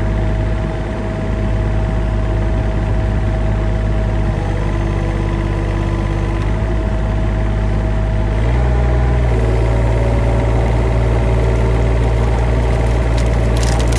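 Engine of an older machine with hydraulics, running steadily; about eight and a half seconds in its note steps up and holds higher. A few sharp knocks near the end.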